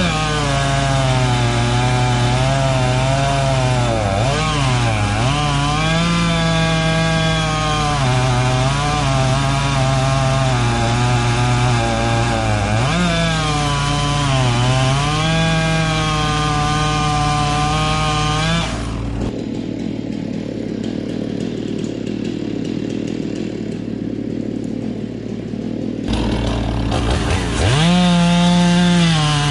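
Gas chainsaw cutting into a standing tree, its engine pitch sagging and recovering again and again as the chain bites under load. About two-thirds of the way through it drops off full revs to a lower, rougher sound for several seconds, then revs up again near the end.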